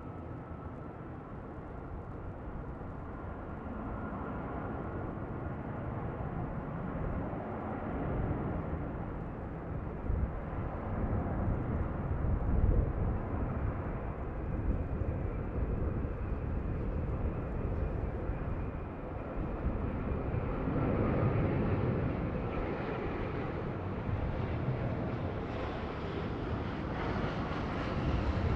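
Jet airliner engines heard from the ground, a steady rushing roar that grows slowly louder and brighter as the aircraft approaches, with a faint thin whine that fades out over the first half.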